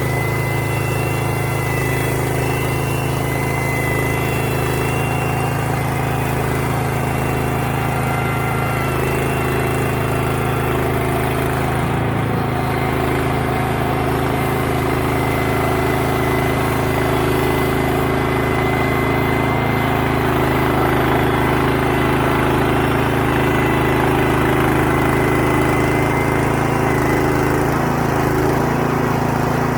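Band sawmill's engine running steadily at a constant speed, with a thin high whine over it.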